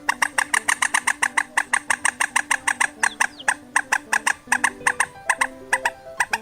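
Call of an adult red crake (Vietnamese 'chim quốc biển đỏ'), played as a hunting lure: a fast run of sharp repeated notes, about eight a second, that slows and spaces out in the last couple of seconds. Background music with low held notes plays under it.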